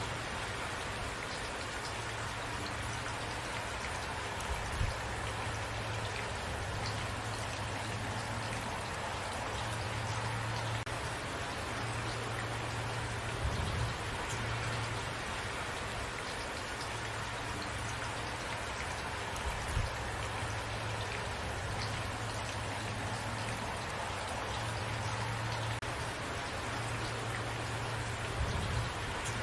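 Steady rain falling and pattering on a surface, an even hiss of many drops, with a few louder single taps now and then.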